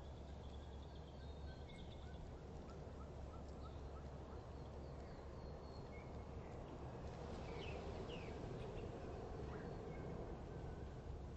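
Small birds chirping faintly: a quick run of short, even notes in the first few seconds and a couple of downward-sliding calls about two-thirds of the way in, over a steady low background hum.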